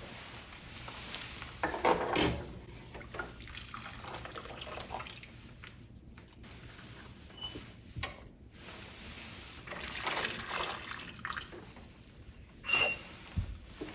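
Water running and splashing in a kitchen sink in uneven spurts, with a few knocks and two brief high clinks.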